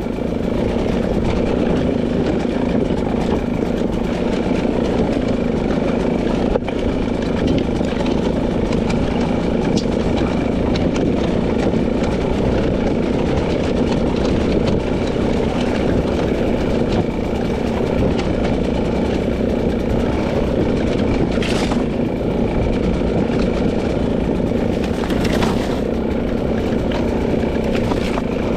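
A 300cc two-stroke dirt bike engine running, loud and steady at an even pitch. Two brief hissing swishes cut through it in the last third.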